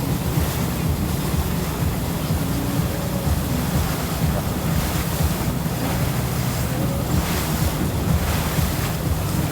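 Wind buffeting the microphone over steady rushing water and waves, with a choppy low rumble underneath.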